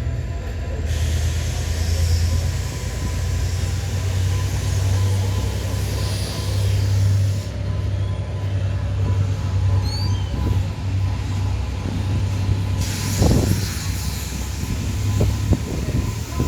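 Train at a station: a steady low rumble, with stretches of hissing that switch on and off abruptly, and a run of knocks and clicks near the end.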